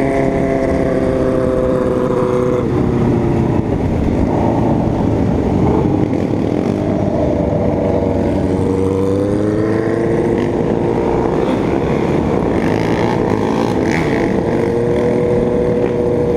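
Motorcycle engine running under way, heard from the bike with steady wind rush. The engine pitch drops about two and a half seconds in, then climbs again after about eight seconds.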